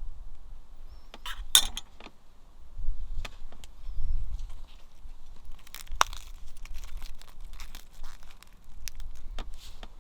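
Cookware and utensils being handled: scattered clinks, scrapes and taps, loudest about one and a half seconds in and again about six seconds in, over a low rumble.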